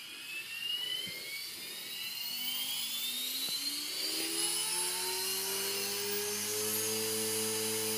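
Align T-Rex 450 Pro electric RC helicopter spooling up: its brushless 450MX motor and rotor whine rise steadily in pitch and loudness as the governor brings the head up to speed, then hold steady near the end at the governed headspeed.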